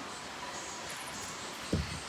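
Heavy rain pouring steadily, heard as an even hiss, with a brief low thump near the end.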